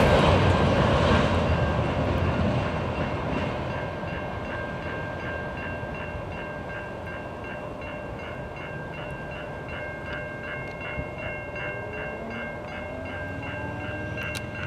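A train runs past and fades over the first few seconds while the level-crossing bell rings steadily, about three strokes a second. A low rising hum comes in near the end.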